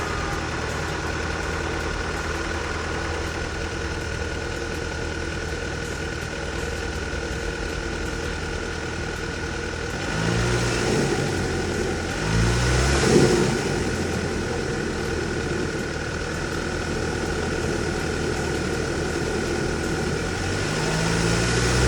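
Audi car engine idling just after being started, with a steady high whine, revved up briefly three times: twice around ten to thirteen seconds in and again near the end. The engine has a running fault that a new camshaft position sensor did not cure, which the owner suspects is a camshaft adjuster.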